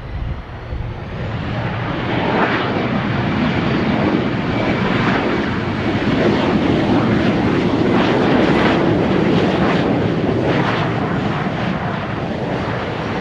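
Aircraft engines running loud as a plane goes by close to the runway. The roar builds over the first couple of seconds, is at its loudest about two-thirds of the way in, then eases a little.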